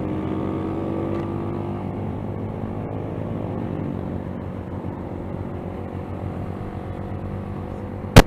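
Motorcycle engine running steadily while riding, its note rising slightly over the first two seconds. One sharp, loud knock near the end.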